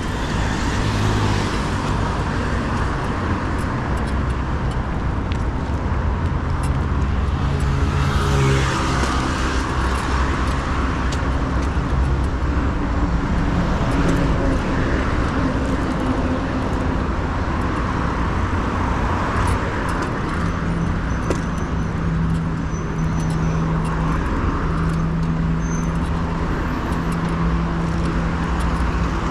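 Road traffic close by: the engines of cars and other motor vehicles running alongside, over a continuous road rumble. An engine hum rises in pitch about eight seconds in, and another holds steady near the end.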